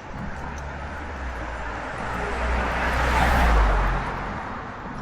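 A road vehicle passing by, its tyre and engine noise swelling to a peak about three and a half seconds in, then fading.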